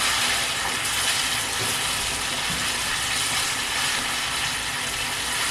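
Flour-dredged chicken wings deep-frying in hot oil, a steady even sizzle.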